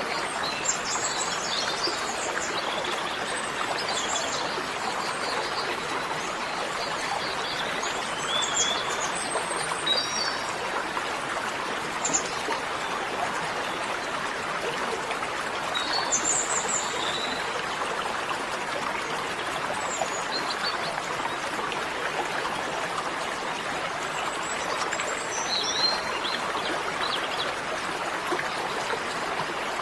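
Steady sound of running water, like a stream, with scattered short, high bird chirps.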